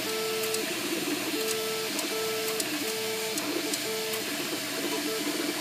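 MakerBot Replicator 2 3D printer running, its stepper motors whining in short steady tones that change pitch with each move, with irregular sharp clicks. The clicking and squeaking is an unwanted noise that the owner traces to the side of the printer opposite the motors.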